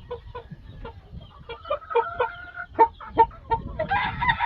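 Chickens clucking in a run of short repeated calls, with a rooster starting a long crow near the end.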